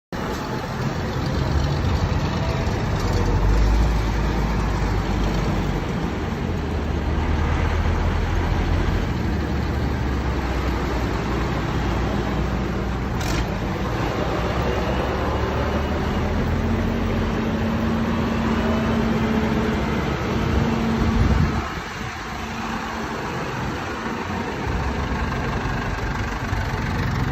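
Old tractor engines running as a procession of vintage tractors drives past, a continuous low rumble that rises and falls as different machines go by.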